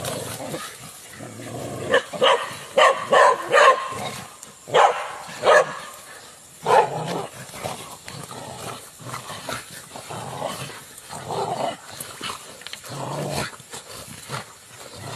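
A dog barking: a quick run of loud barks a few seconds in, then single barks spaced further apart, and quieter calls after that.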